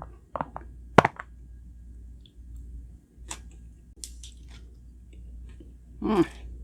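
Close-miked chewing of chow mein noodles: scattered wet mouth clicks, a sharp click about a second in, and a short voiced sound near the end.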